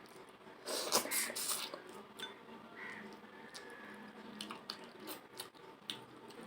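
Close-up eating sounds of a person eating rice and curry: wet chewing and smacking clicks scattered throughout, with a louder noisy burst of slurping or sucking about a second in.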